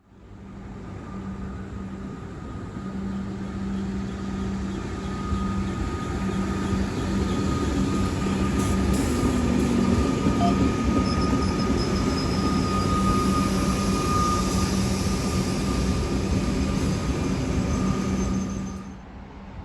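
Passenger train running, growing louder over the first ten seconds, with a steady low hum and a steady higher whine. The sound drops away suddenly near the end.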